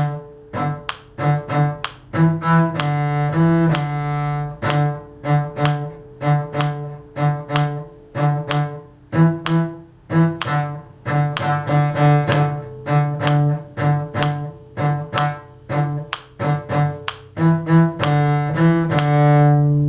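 Cello bowing the harmony line of a simple tune in short, detached notes, about two a second, with a few longer held notes, the last one held through the end.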